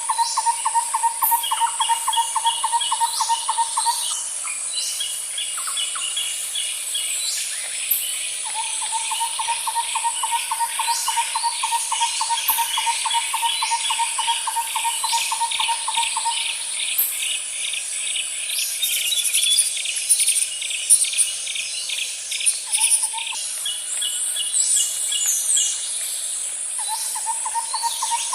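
Nature ambience: a steady high-pitched insect drone, with long, evenly pulsed lower trills that come and go in runs of several seconds, a faster higher trill, and scattered bird chirps, a few of them louder about two-thirds of the way through.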